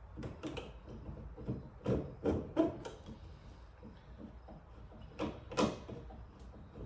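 Hand pop-rivet tool being squeezed over and over to set a rivet, giving a series of short mechanical clicks and knocks.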